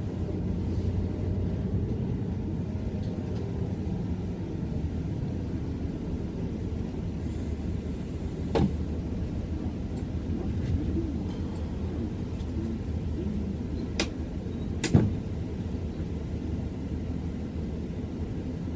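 Steady low rumble of a moving transit vehicle, with a few sharp clicks or knocks, one about halfway through and two close together near three quarters of the way in.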